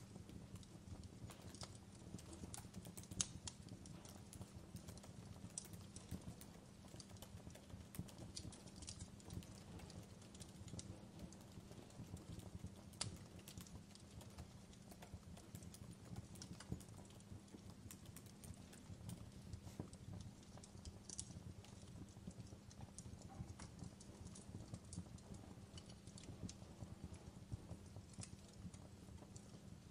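Recorded wood fire crackling: irregular small pops and snaps over a faint, steady low rumble.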